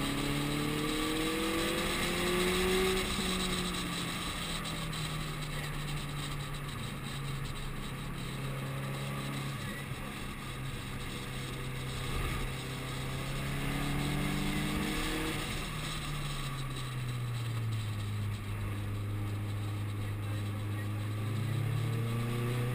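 Subaru WRX STI's turbocharged flat-four heard from inside the cabin under track driving. The revs climb over the first few seconds, hold, drop about sixteen seconds in and climb again near the end, over a steady hiss.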